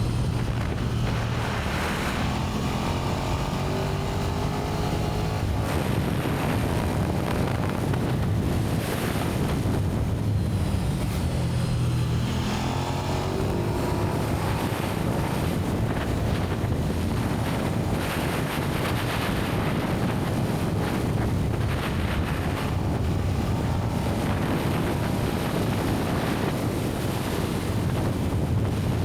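KTM 1290 Super Duke R's V-twin engine on its stock exhaust, heard riding with heavy wind noise on the microphone. The engine note climbs in pitch under acceleration and drops back a couple of times.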